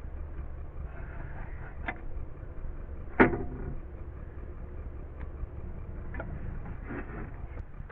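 A steady low rumble with one sharp knock about three seconds in, and a few fainter clicks.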